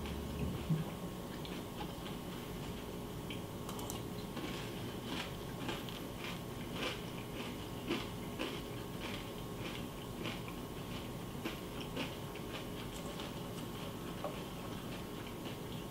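A person eating cereal: irregular crisp crunches and clicks, one or two a second, mostly through the middle, over a steady low background hum.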